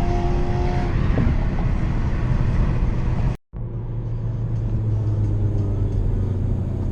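Car engine and road noise from a car on the move. There is a sudden brief dropout about three and a half seconds in, after which a steady low drone carries on.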